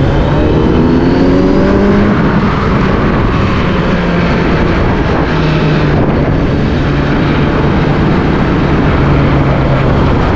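Motor vehicle engine running on the move over heavy wind and road noise, rising in pitch as it accelerates in the first two seconds, then holding a steady speed.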